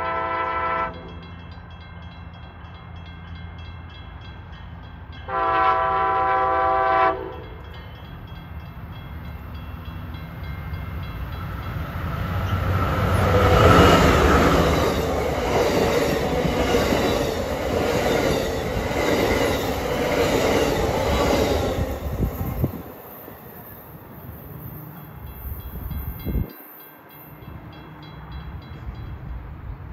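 Locomotive air horn sounding at a grade crossing: a blast ending about a second in, then a second one a few seconds later. The train then passes, its wheels clacking rhythmically over the rails, loudest midway and dropping away sharply about two-thirds of the way through.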